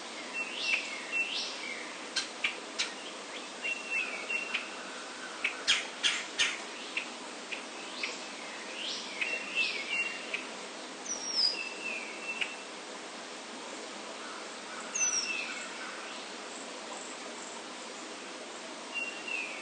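Songbirds calling: a short phrase of rising notes repeated every couple of seconds, with sharp chip notes between and two high, thin down-slurred calls.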